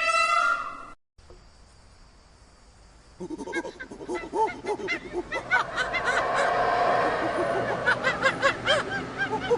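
A pitched bird call ends about a second in, followed by a faint hiss. From about three seconds in, a flock of geese honks, many short overlapping calls growing denser.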